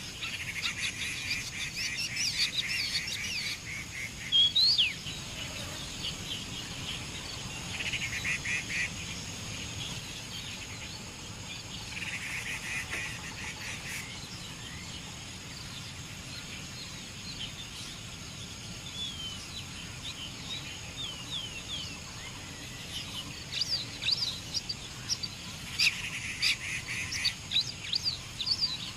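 A shrike singing: bursts of fast, harsh rattling chatter, four times, alternating with quick high chirps and whistles that thicken near the end.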